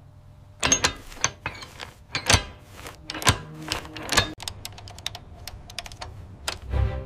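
A rapid, irregular run of sharp clicks and taps, a few of them louder knocks.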